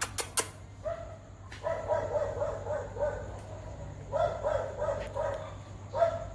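A dog making short, repeated yelping calls in quick runs of several a second, starting about a second in. Two sharp clicks sound right at the start.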